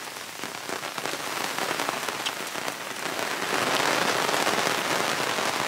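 Heavy rain falling, with many small drop hits, growing louder about three seconds in.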